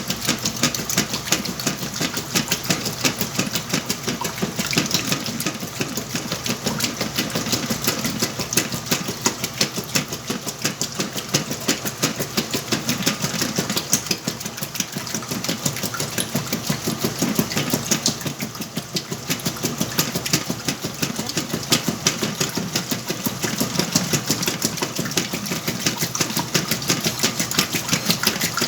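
Whirlpool washing machine running a load of blankets, a steady, fast, even clatter from its drive with a lower hum underneath, dipping slightly for a moment past the middle.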